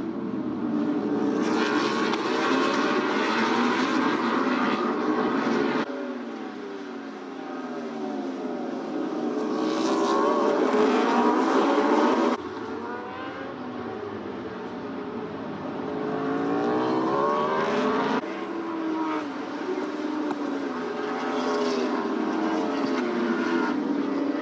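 Superbike engines revving and running past, the pitch sweeping down and climbing again, in several segments that cut off abruptly.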